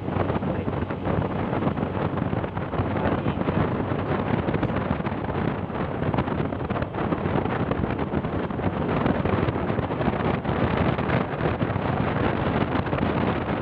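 Steady wind noise buffeting the microphone over the running noise of a moving vehicle.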